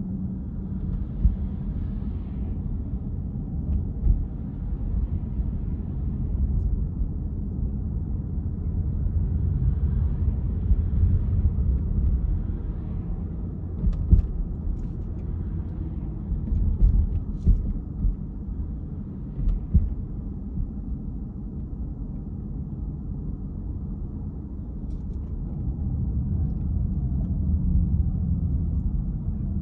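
A car driving, heard as a steady low rumble of tyres and engine. A handful of short knocks or bumps stand out above the rumble, most of them in the first two-thirds.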